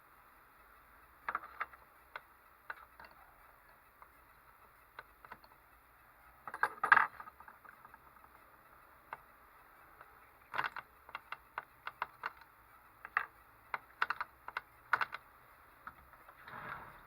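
Irregular clicks and taps of hands working on a small model engine, with a short clattering burst about seven seconds in. The engine is not running.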